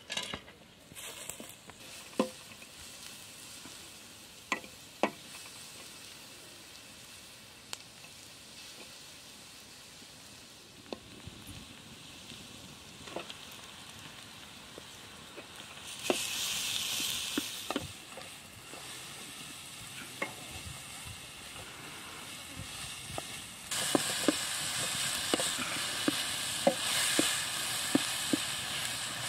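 Onions and minced camel meat frying in a steel pan over a wood fire, sizzling, with a metal spatula scraping and tapping the pan as the mix is stirred. The sizzle flares up about halfway through and grows louder near the end, where the spatula taps come thick and fast.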